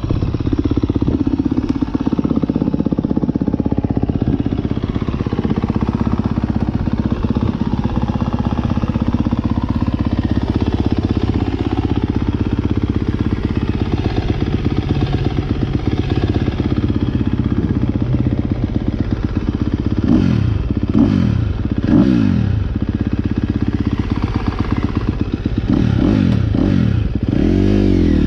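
2023 KTM 250 SX-F motocross bike's single-cylinder four-stroke engine through an Akrapovic Evolution Line exhaust, heard on board while riding. It runs fairly steadily at first. In the last third it revs sharply up and down several times as the throttle is worked, with some clatter from the bike.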